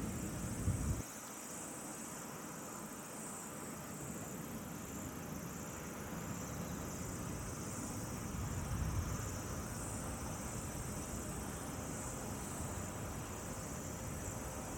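Insects chirping in a steady, high-pitched chorus with an even, pulsing rhythm. A low rumble fades about a second in and swells briefly again around eight to nine seconds in.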